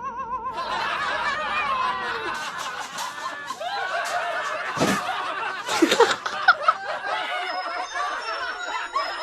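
Several people laughing at once, their voices overlapping, with a few sudden louder sounds about five and six seconds in.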